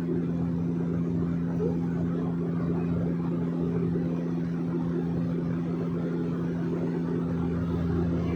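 Small private airplane's engine noise heard inside the cabin: a steady drone with two constant low tones under a rushing hiss.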